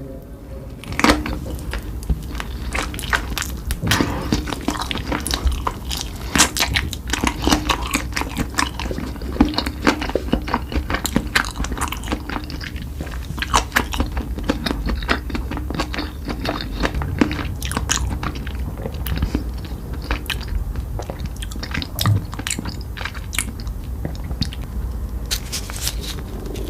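A person biting and chewing crunchy food, with many irregular sharp crunches and mouth clicks throughout.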